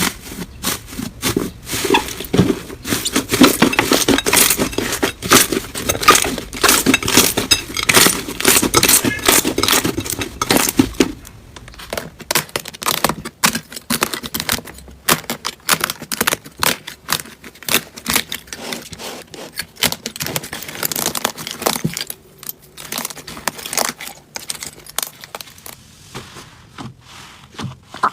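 Slime being squeezed and pressed, making dense crackling and popping that is busiest in the first half and more scattered later.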